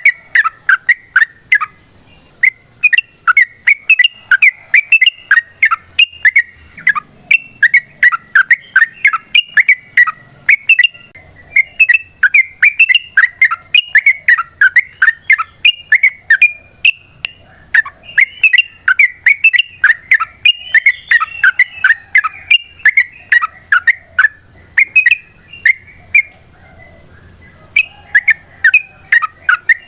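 Yellow-vented bulbul (trucukan) singing a long, fast run of rapid chattering whistled notes, several a second, with brief pauses about two seconds in and near the end. This is the long 'ropel' song used as a lure to draw other trucuk birds in.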